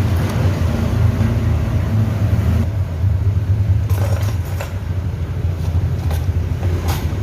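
Steady low rumble of a motor vehicle's engine running close by, with a few light clicks in the second half.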